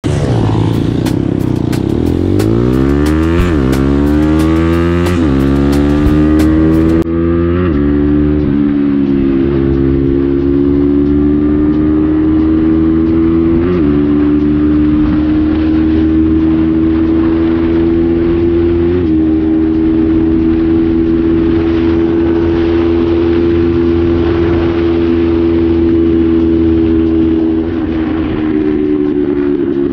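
Crossfire dirt bike's engine heard from the rider's seat, accelerating hard through the gears: the pitch climbs and falls back at each of several upshifts, then holds steady at cruising speed and eases off near the end. Sharp crackling clicks run over the first several seconds.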